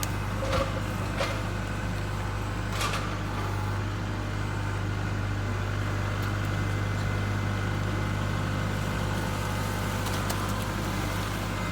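An engine idling steadily, with a few light knocks in the first three seconds.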